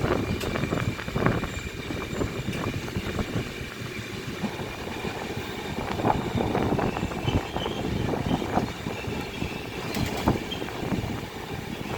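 Train running on the track: a steady rumble of the wheels with irregular knocks and clatter.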